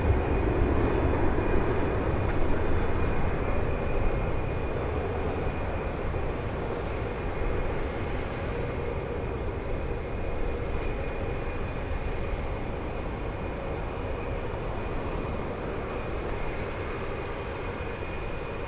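Airbus A321 jet engines at takeoff power, a steady rumble with a faint whine, slowly fading as the airliner climbs away.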